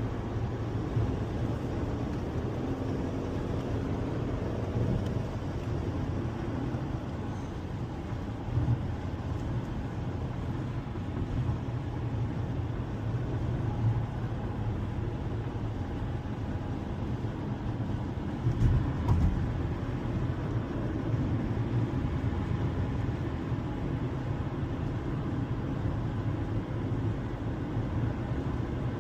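Steady low rumble of a car heard from inside the cabin, with a couple of brief thumps about nine and nineteen seconds in.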